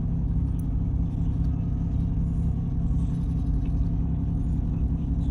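Steady low rumble of a ship's diesel machinery running, heard on board.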